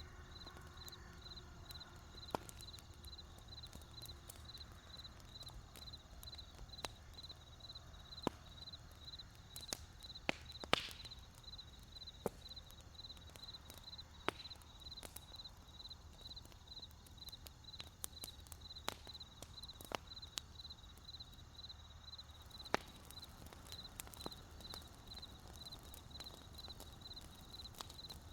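Wood campfire crackling, with sharp irregular pops, the loudest about eleven seconds in, over a low steady rumble of the burning fire. Throughout, a cricket chirps in a steady, fast, even pulse of one high note.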